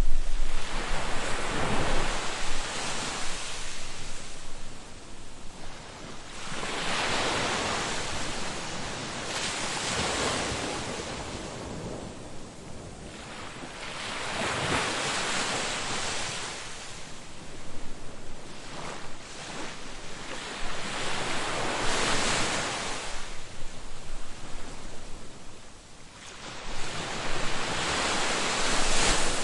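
Ocean surf: waves breaking and washing up a beach, swelling and falling back every few seconds.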